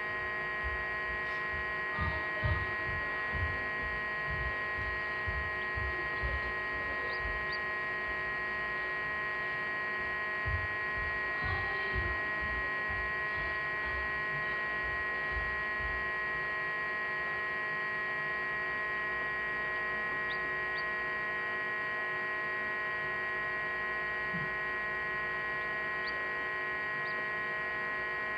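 Egg incubator running with a steady electric hum made of many steady tones. A series of low thumps comes during the first half.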